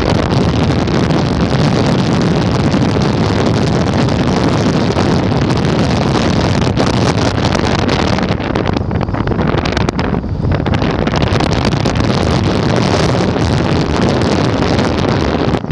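Wind rushing hard over the microphone, a loud steady roar of buffeting with no let-up.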